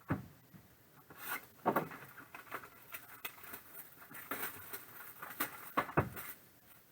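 Trading card box packaging and pack wrappers being handled and torn open: crinkling and rustling with a few soft knocks, the loudest about six seconds in.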